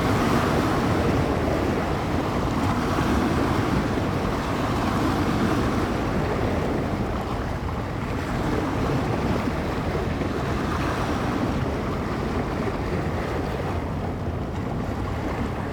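Bay waves washing and breaking on the shore, with wind buffeting the microphone: a steady rushing noise that swells and eases every few seconds.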